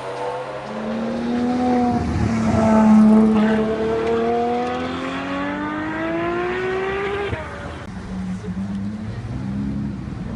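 Supercar engine accelerating hard, its note climbing steadily for about six seconds, then cutting off sharply as the throttle lifts or it shifts, leaving a lower, quieter engine note.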